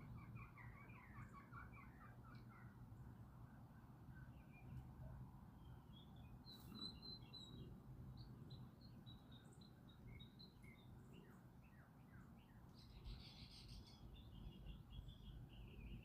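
Faint outdoor birdsong: small birds chirping, with a quick run of trilled notes at the start, then scattered single chirps over a low steady rumble. A short hiss comes in about thirteen seconds in.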